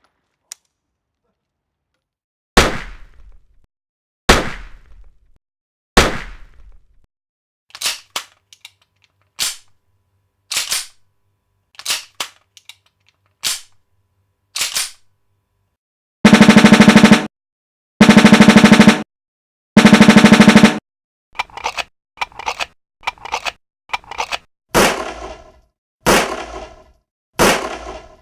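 A sequence of gun sound effects. First come three single gunshots about two seconds apart, each ringing out, then a string of metallic gun-cocking clicks. Next are three loud bursts of rapid automatic rifle fire, a few more cocking clicks, and three final single gunshots.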